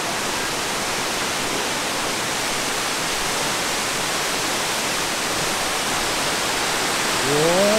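Kuang Si Waterfall: a steady, even rush of falling water.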